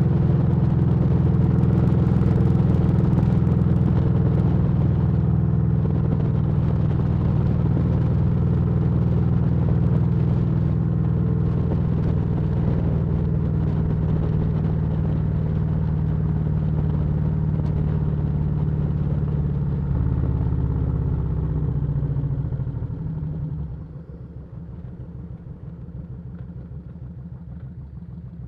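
Motorcycle engine running steadily, then easing off about two-thirds of the way through and settling to a quieter, lumpy idle near the end.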